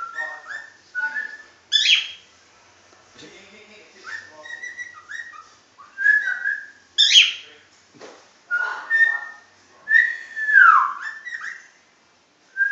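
Pet talking bird whistling and chattering: a run of short whistled notes and chirps with two harsh squawks, and one long whistle sliding downward near the end.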